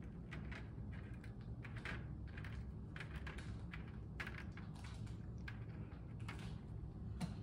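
Light, irregular clicks and taps as crisp macaron shells are picked up, turned over and set back down on a metal wire cooling rack, over a faint steady low hum.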